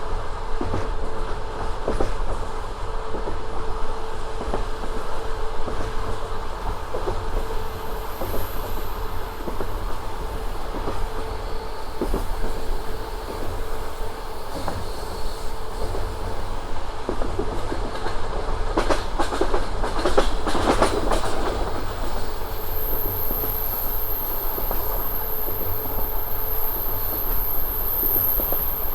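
Passenger train running along the line, its wheels clicking over rail joints above a steady rumble, with a quick run of heavier clatter about two-thirds of the way through.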